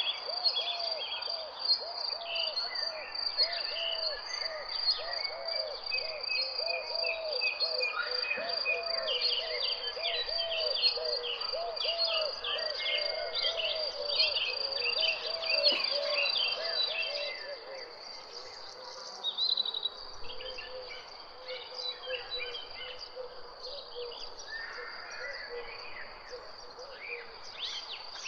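Songbirds chirping and singing over a steady, high insect trill, with a low call repeating about twice a second that fades out about two-thirds of the way through.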